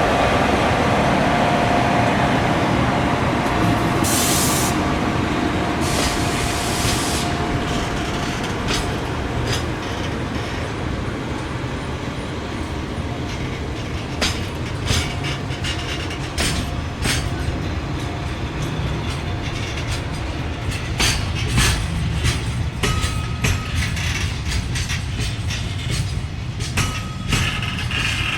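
A train running past on the rails: a steady rumble with a faint steady tone over the first several seconds, then a long run of sharp wheel clicks over rail joints through the second half.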